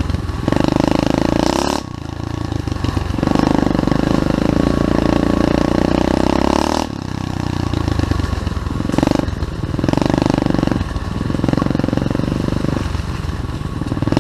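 SSR 125cc pit bike's single-cylinder four-stroke engine being ridden hard, the throttle opened and closed repeatedly: loud pulls of one to three seconds, each broken by a short drop in revs.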